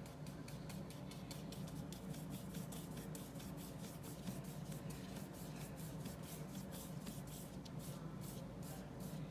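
Paintbrush scrubbing oil paint onto gesso-coated paper, a faint scratchy brushing in quick repeated strokes, over a steady low hum.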